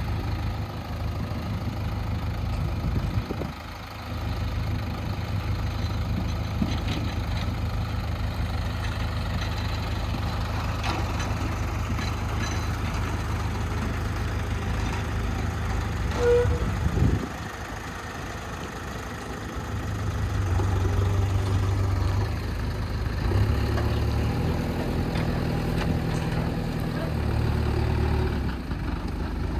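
Diesel engine of a backhoe loader running under working load, its engine note stepping up and down several times in the second half. A short single tone sounds about halfway through.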